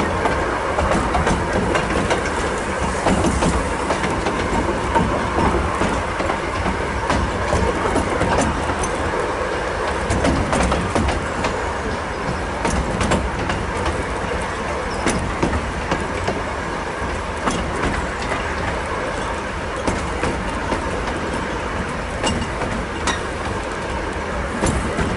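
Narrow-gauge passenger train running along the track, heard from aboard a coach: a steady rolling rumble of wheels on rails with scattered sharp clicks.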